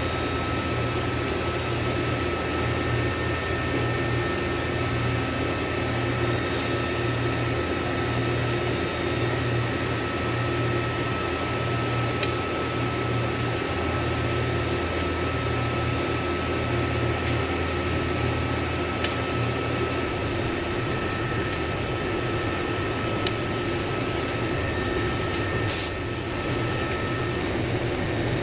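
Steady fan hum throughout, with about four brief sharp clicks spread across it, from the torque wrench as the connecting-rod bolts are pulled to 30 foot-pounds.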